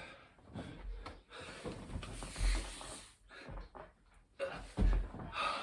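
A man breathing hard through a burpee rep, with heavy exhales and several dull thuds as his body drops to and springs up from the floor.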